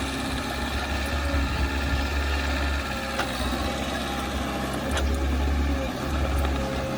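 Heavy earthmoving machine's diesel engine running steadily, with two short sharp clicks about three and five seconds in.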